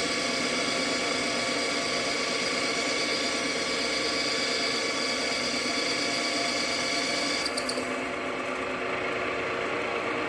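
JFMT lathe running at 500 RPM while taking a 2 mm-deep turning cut on a steel bar under power feed, a steady machine whine with the tool cutting. About seven and a half seconds in, the cutting sound stops as the pass ends, and the lathe runs on.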